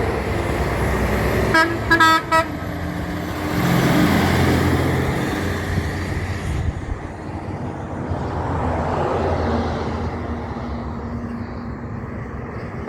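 A big truck's horn gives three short toots about two seconds in. Under it is steady truck engine noise that grows louder around four seconds in and then slowly fades.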